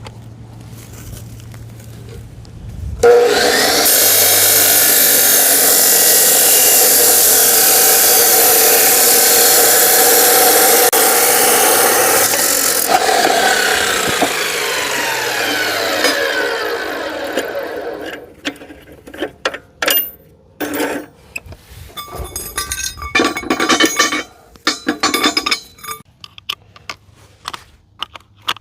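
A corded power saw cutting scrap steel angle iron for about twelve seconds, then spinning down with a falling whine. A run of sharp metal knocks and scrapes follows as the cut pieces are handled.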